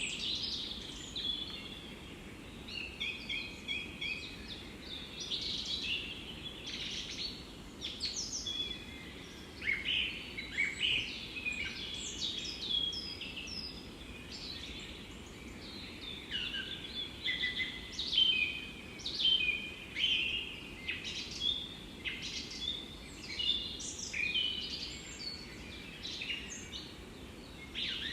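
Several songbirds singing in a forest: a dense stream of short chirps, trills and quick up-and-down whistles, over a faint steady low background rumble.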